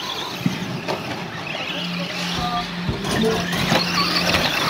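Electric radio-controlled off-road trucks with 23-turn motors running on the track: motor whines that rise and fall in pitch, with tyre and chassis noise and a steady low hum.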